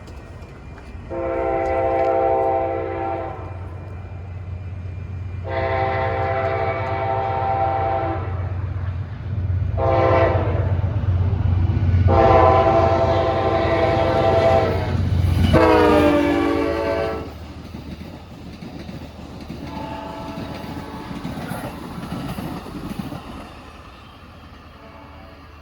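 Amtrak P42DC diesel locomotive's horn sounding the grade-crossing signal: long, long, short, long, the last blast falling in pitch as the locomotive passes, over the low drone of its diesel engine. After the horn the passenger cars roll by with a quieter rumble and wheel clatter.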